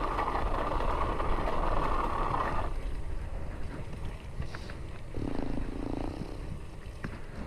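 Traffic heard while riding a bicycle along a street: a steady hum from a vehicle cuts off about two and a half seconds in, and a lower engine hum passes about five seconds in.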